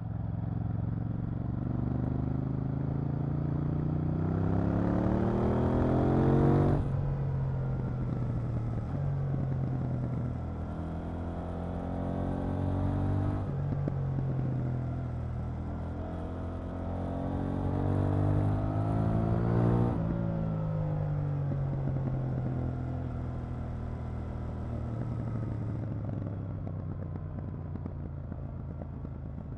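KTM 890 Duke R's parallel-twin engine pulling hard, its pitch rising steeply to about seven seconds in and then dropping sharply. It climbs again in stages to a second peak about twenty seconds in, then falls away and runs on more evenly as the bike slows.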